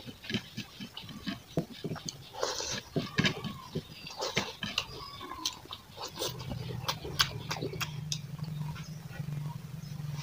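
Close-up chewing and loud wet mouth-smacking of a mouthful of rice eaten by hand, with quick clicks and slurps. About six seconds in, a steady low hum starts and keeps on under it.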